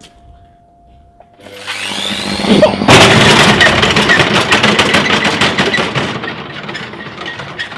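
Washing machine, its brushed motor wired straight to the mains, spinning up with a brick in the drum: a rising whir, then from about three seconds in loud, rapid, dense banging and rattling that fades toward the end.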